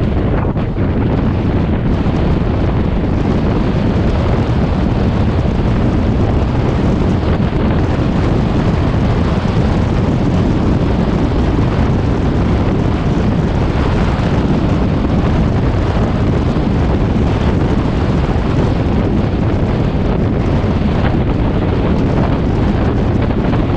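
Steady wind rumble buffeting the microphone, loud and unbroken.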